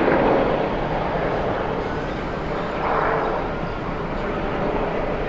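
Airbus A380's four jet engines, a steady rushing noise that swells slightly twice.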